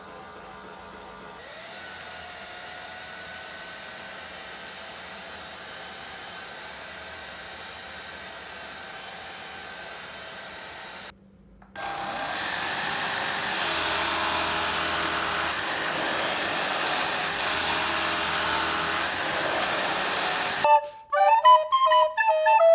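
Electric wet-mop floor cleaners running steadily, one after another: a quieter machine first, then a short break and a noticeably louder one. Flute music comes in near the end.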